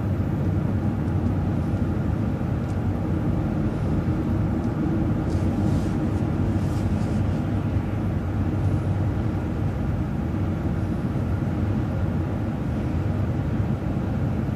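Steady engine and road rumble of a moving vehicle, heard from inside while driving at a constant pace, with a little faint hiss about five to seven seconds in.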